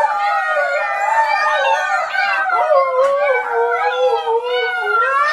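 A dog howling continuously, its pitch wavering up and down without a break.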